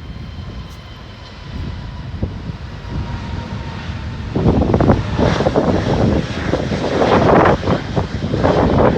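Jet airliner's engines rumbling, then growing suddenly much louder about four seconds in as a rough, gusty roar.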